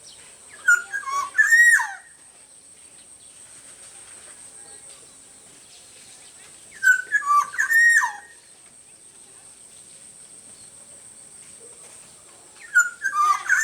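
Black-naped oriole (kepodang) singing: the same short fluty whistled phrase, a few quick notes ending in a falling one, given three times about six seconds apart.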